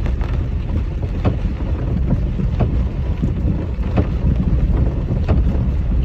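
Heavy wind rumbling across the microphone, with sharp taps about every second and a bit.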